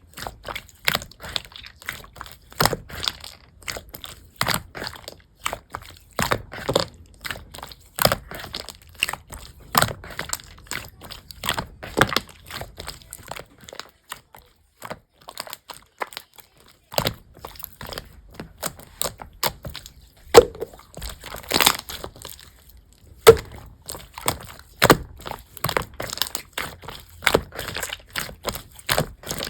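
Blue slime being squeezed and pressed by hand, giving a dense run of sharp clicks and crackling pops, with a short pause about halfway through.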